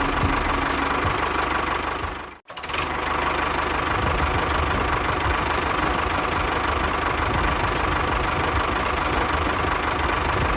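Small motor of a model-scale DIY tractor or bulldozer running steadily, with a rapid low chugging and a steady whine. It cuts out abruptly for a moment about two and a half seconds in, then resumes unchanged.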